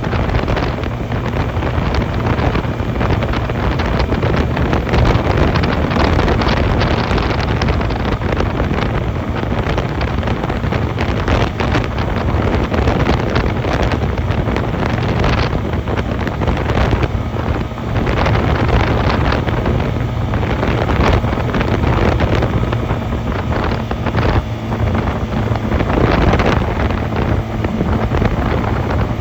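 Heavy wind buffeting on the microphone of a Honda 250cc motorcycle under way, with the engine running steadily beneath it.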